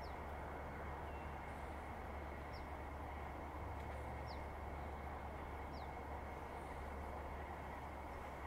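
Outdoor ambience: a steady low rumble, with four short, high chirps from a small bird, each falling in pitch, about a second and a half apart.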